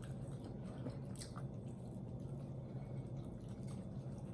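Quiet, steady low hum with faint wet mouth sounds of eating, including a brief click about a second in.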